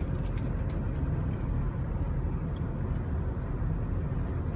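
Steady low rumble of a small truck's engine and road noise heard from inside the moving cab.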